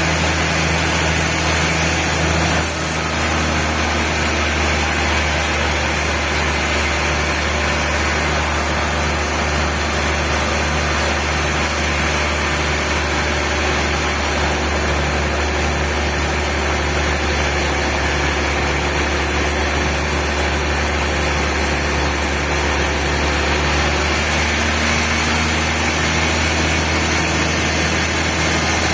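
Sawmill machinery running with a steady engine-like hum. Its low tone shifts slightly about two and a half seconds in and again near the end.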